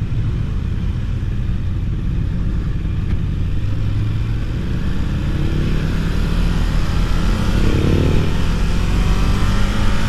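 Ducati Monster 1200R's V-twin engine running under way, with wind noise; its pitch rises twice in the second half as it accelerates.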